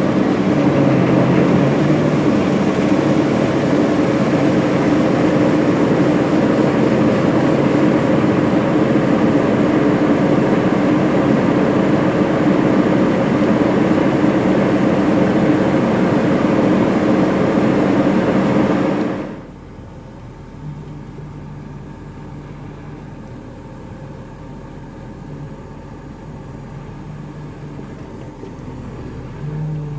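New Holland CR 8.90 combine harvester running while harvesting corn, a loud steady machine noise with a few steady engine tones. About two-thirds of the way through it drops suddenly to a much quieter, duller machine sound.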